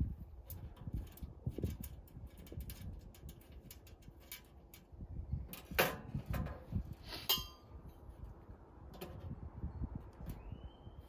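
Metal parts of a camping wood stove being handled during unboxing: scattered knocks, clicks and low thuds, with a sharper knock just before six seconds and a clink that rings briefly about seven seconds in.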